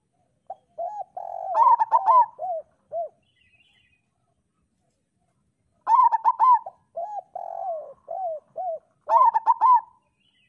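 Zebra dove (perkutut) cooing: two bouts of its rhythmic song of short rising-and-falling coos, one in the first three seconds and another from about six seconds in.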